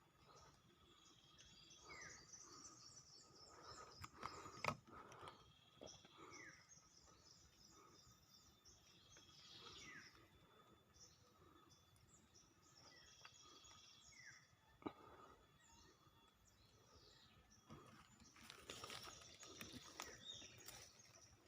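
Faint calls of small wild birds: repeated high chirping trills and short down-slurred notes, with a few sharp clicks, one about five seconds in and one near fifteen seconds.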